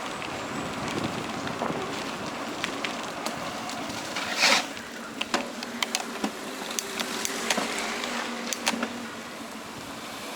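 Bicycle rolling downhill on a forest track: a steady rolling noise with scattered clicks and rattles, and a louder short jolt or scrape about four and a half seconds in.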